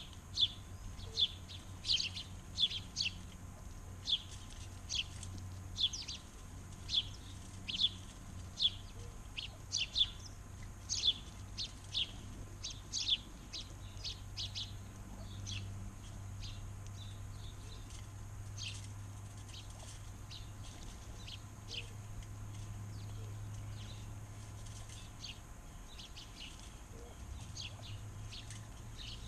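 Backyard birds chirping: a rapid run of short, sharp, high chirps, several a second at times, thinning to sparser, fainter chirps about halfway through, over a low steady hum.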